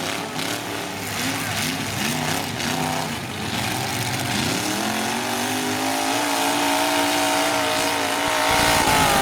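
Demolition derby pickup truck engines revving up and down in short bursts, then one engine climbing about four seconds in and holding at high revs. The sound grows loudest and harshest near the end.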